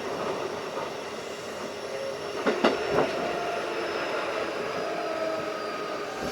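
Keikyu 1500-series field-chopper-controlled electric train running at speed: a steady rumble with a held whine, and a quick cluster of three sharp clacks from the wheels about two and a half to three seconds in.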